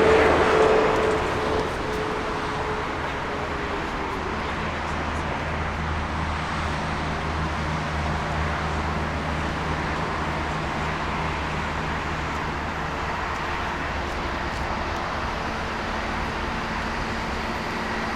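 Jet airliner engine noise fading away in the first second or two, with a whine that slowly falls in pitch, then a steady low rumble of jet engines and airport noise.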